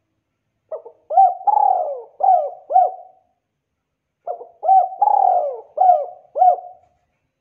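Spotted dove cooing: two matching coo phrases, the second starting about three and a half seconds after the first. Each phrase is a soft lead-in, then several quick notes with a longer drawn-out coo among the first of them.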